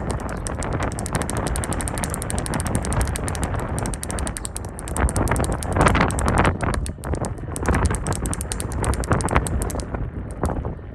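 KiHa 40 diesel railcars pulling into the station: a rapid, continuous clatter of wheels over rail joints and points over the low rumble of the train, with the clatter stopping abruptly near the end.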